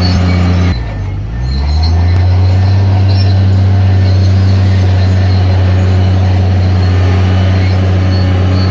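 Diesel engine of a Shantui crawler bulldozer running loud and steady. About a second in the sound dips suddenly and the engine pitch sinks, then climbs back to a steady run within a second.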